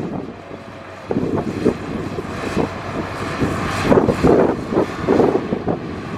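Heavy diesel earthmoving machinery working: a big engine running under load with irregular clanking, getting louder about a second in.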